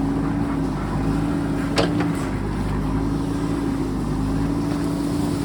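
JCB backhoe loader's diesel engine running steadily under work, its pitch wavering slightly, with one sharp knock a little under two seconds in.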